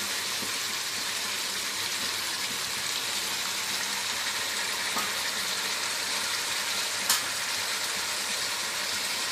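Chicken and freshly added tomato slices sizzling in oil in a steel pot, a steady hiss. Two sharp ticks cut through it, the louder about seven seconds in.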